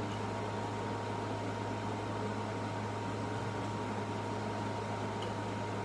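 Steady electric hum of running workshop machinery, with a deep low drone and a thin, faint high whine above it.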